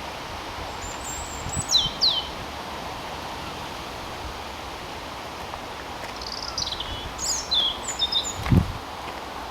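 A small songbird singing short, high phrases of quick falling notes: one brief phrase about two seconds in, and a longer, more varied one from about six to nine seconds in. A steady background hiss runs underneath, and there is a low thump near the end.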